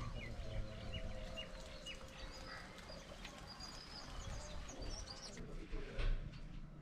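Birds chirping: many short, high cheeps in quick succession over a faint steady hum, thinning out about five seconds in.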